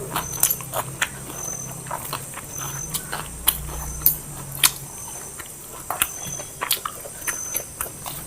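Eating sounds as biryani and salad are chewed and crunched: irregular wet clicks, smacks and crunches, several a second. Beneath them runs a steady low hum, and crickets chirp faintly and high in the background.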